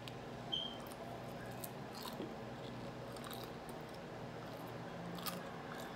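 A person biting into and chewing a fried dumpling, with scattered small mouth clicks.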